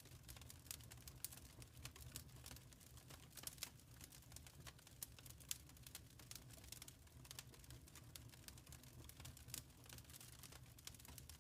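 Wood fire crackling quietly: irregular small snaps and pops, several a second, over a soft low rumble of the flames.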